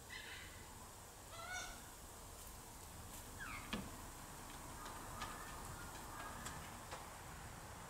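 Native Australian birds calling over a light breeze: two short calls in the first two seconds, a falling call about three and a half seconds in, then a few faint short notes.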